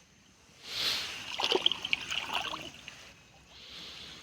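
Water splashing and trickling, with a few small knocks, as a small fishing net is handled and drawn out of the pond. The splashing is loudest in the first half, with a fainter spell of water sound near the end.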